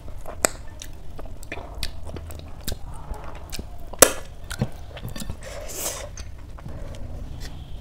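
Close-miked chewing of a hand-fed mouthful of rice with spicy paneer curry: many small wet mouth clicks and lip smacks, with one sharper, louder click about four seconds in.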